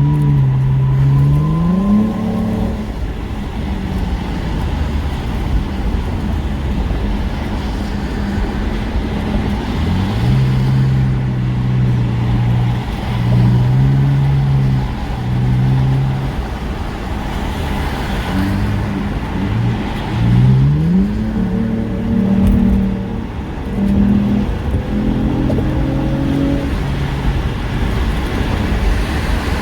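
Car engine accelerating hard in several pulls, its note climbing through the revs and stepping back with each gear change. Under it is steady road and wind noise from a car at highway speed.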